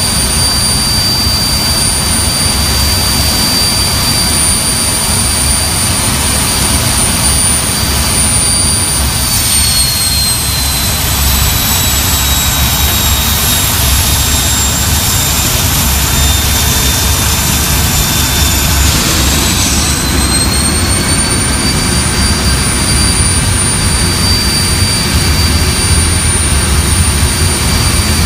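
Avro Vulcan's Rolls-Royce Olympus turbojets running on the ground: a loud, steady roar with a high whine. The whine drops in pitch about nine seconds in as the engines are throttled back, holds lower for about ten seconds, then climbs back as they spool up again.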